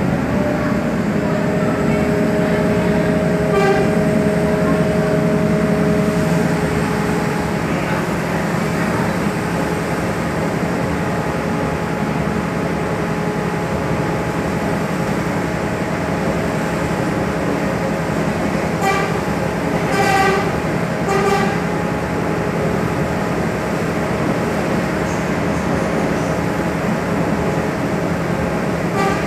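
Steady running noise of a moving train, with a held tone that stops about seven seconds in. Three short horn toots come close together about twenty seconds in.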